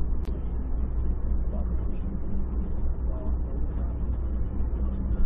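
Steady low rumble of engine and road noise inside a moving car, picked up by a dashcam's built-in microphone.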